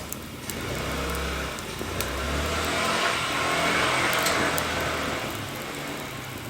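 A motor vehicle passes by: engine and road noise build from about half a second in, peak near the middle and fade away. The crackle of a burning wood fire continues throughout.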